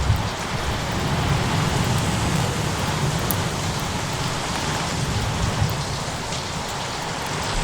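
Steady rain falling in a layered storm ambience, with a low continuous rumble underneath and a few faint crackles.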